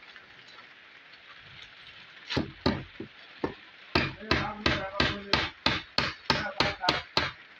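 Hammer blows on wood: a few separate knocks, then a steady run of about three strikes a second for some three seconds.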